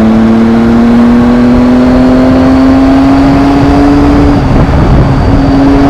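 Triumph motorcycle engine pulling steadily under throttle, its note rising slowly. It briefly breaks off about four and a half seconds in, then holds steady, over low wind rush on the rider's microphone.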